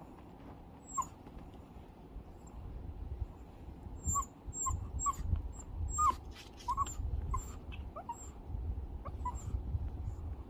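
Pomeranian whining in short high squeaks: one about a second in, then a quick string of them from about four seconds in until near the end, over a low rumble.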